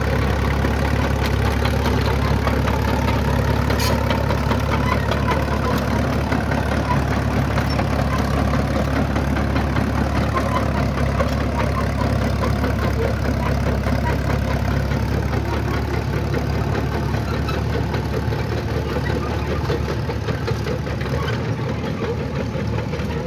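Antique road grader's engine running steadily, a continuous low hum that eases slightly near the end.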